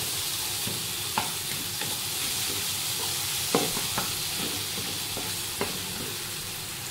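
Chopped tomatoes sizzling steadily in hot oil in a non-stick kadai while a wooden spatula stirs them, scraping and knocking against the pan a handful of times, loudest a little past halfway.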